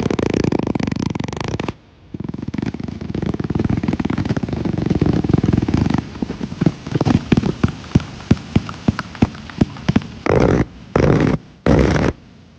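Mooncake firework going off: a sputtering, crackling spray that breaks off briefly about two seconds in and starts again. From about six seconds it turns into a string of sharp pops, a few a second, and ends in three short, loud bursts near the end.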